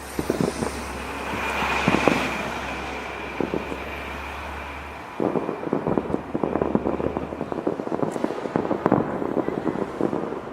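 Fireworks going off: a few sharp bangs and a thin whistle, then from about halfway a long stretch of dense, rapid crackling.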